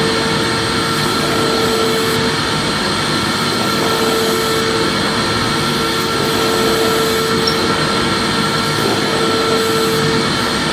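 Vacuum cleaner running steadily: an even rushing noise of its motor and airflow with a constant hum and a fixed high whine.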